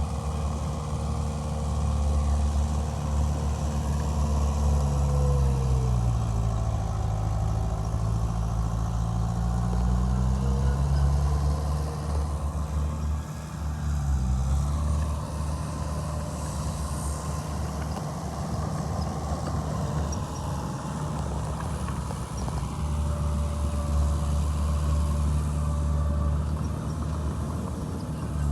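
Heavy earthmoving machine's diesel engine running under changing load. Its pitch drops about five seconds in, climbs back around ten seconds, dips briefly near the middle, then holds fairly steady.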